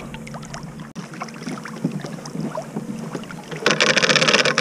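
Small splashes and light knocks from working a crab trotline from a kayak, with a loud, fast rattle lasting under a second near the end.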